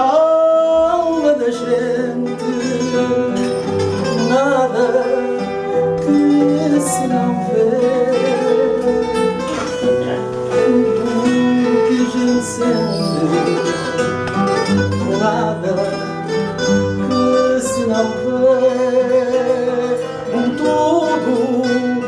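Fado played on a Portuguese guitar and a fado viola (classical guitar): plucked melody over strummed accompaniment, continuous throughout.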